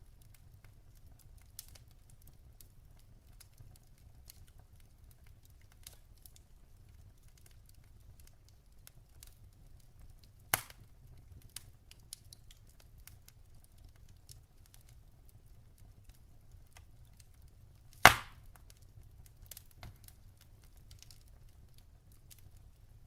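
Wood fire burning in a fireplace: logs crackling with many small scattered ticks and two loud pops, about ten and eighteen seconds in, over a low steady rumble.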